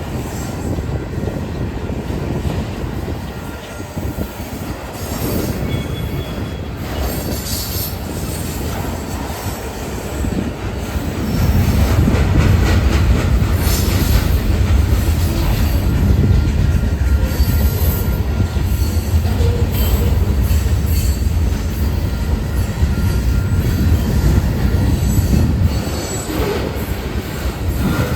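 Union Pacific mixed freight train rolling past, its wheels squealing in short high-pitched bursts over a steady rumble. The rumble grows louder about eleven seconds in.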